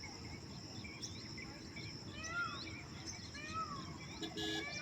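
Several wild birds calling with short arching, whistled notes over a steady high-pitched insect drone, with a brief buzzy call near the end.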